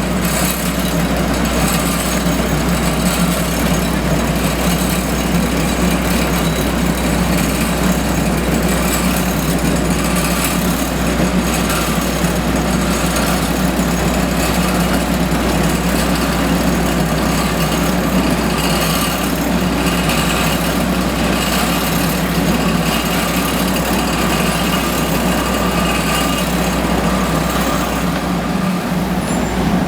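Diesel engines of heavy asphalt-paving machinery running steadily.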